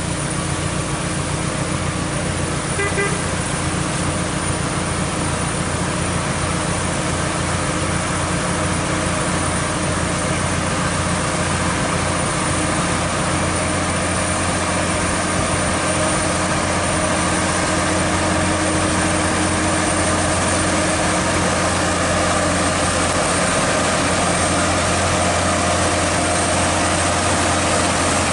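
Heavy truck's diesel engine running, a low drone that pulses for the first several seconds and then steadies, with a brief high tone about three seconds in.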